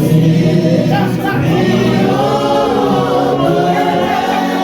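Church choir singing a gospel hymn, voices holding long notes.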